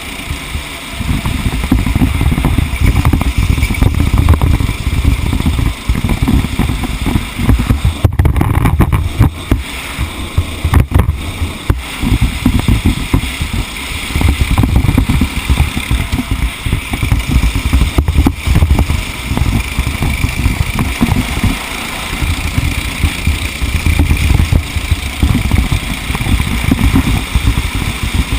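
A racing vehicle's engine running continuously under way, with loud, choppy low rumbling throughout.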